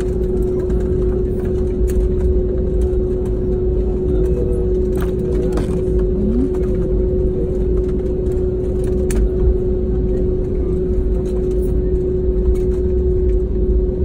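Airliner cabin noise on the ground after landing: a steady, heavy low rumble with a constant hum, and a few short clicks and knocks.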